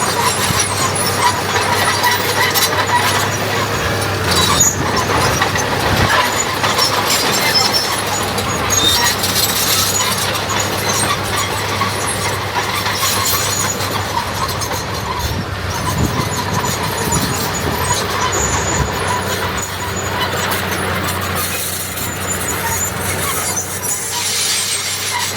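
Diesel earthmoving machinery running steadily: a D21 bulldozer and 5-ton dump trucks at work, with a constant engine drone.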